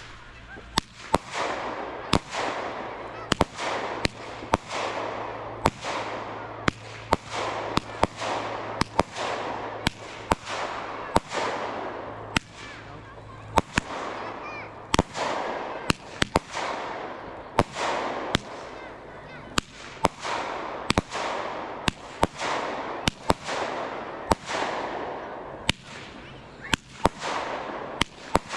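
Fireworks going off in a fast, even series of sharp bangs, about one and a half a second, each followed by a fading crackle.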